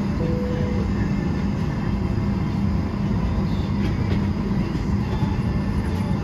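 Steady cabin noise inside a Boeing 737-800 airliner, with a constant low hum running under it. A short steady tone sounds just after the start.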